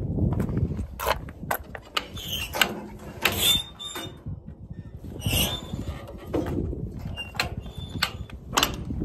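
A run of mechanical clicks and knocks with short, high squeaks, loudest about three seconds in and again a little after five seconds.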